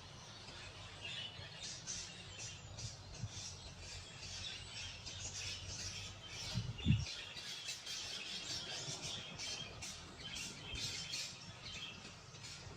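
Many small birds chirping, with rapid, overlapping short calls throughout. A single low thump sounds about seven seconds in, the loudest moment.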